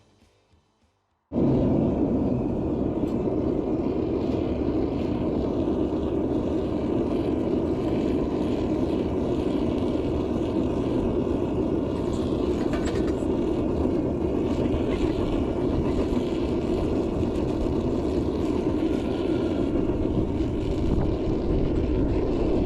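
Burner of a gas-fired metal melting furnace running during an aluminium melt: a loud, even rushing noise with no rhythm that starts abruptly about a second in.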